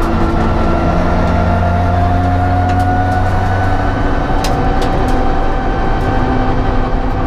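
Opel Kadett GSI 2.0 Group N race car's four-cylinder engine running hard at high revs, its pitch climbing slowly and steadily as the car pulls. A few brief clicks come around the middle.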